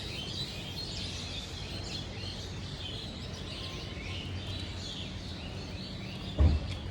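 Many birds chirping and calling over one another, over a steady low hum. A brief low thump comes near the end.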